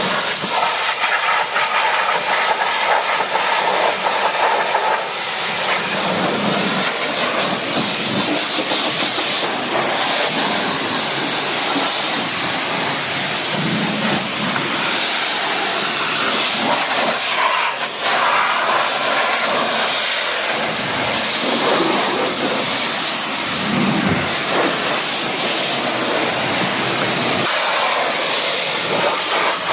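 High-pressure washer spray hissing steadily against a truck's body, with a brief break about two-thirds of the way through.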